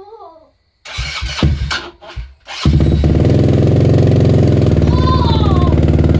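Can-Am Renegade 110 youth ATV engine cranking in a few short bursts. It catches about two and a half seconds in, then runs steadily through its HMF slip-on exhaust without being revved.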